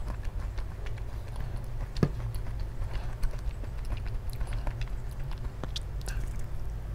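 Close-miked eating sounds: chewing with many small wet mouth clicks over a steady low hum, with a single sharper knock about two seconds in. Near the end, a bite into a crusty baked honey bread (kkulppang).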